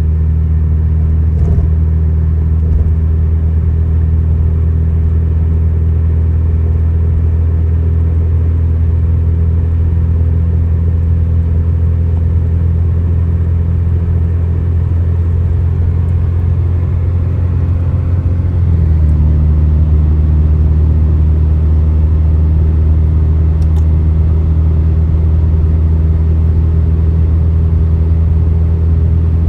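Steady low rumble of a car driving on a highway, its pitch stepping slightly lower about two-thirds of the way through.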